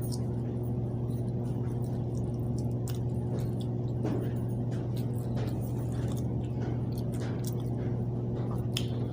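A steady low mechanical hum with even overtones, like a motor or engine running, with scattered light clicks and taps over it.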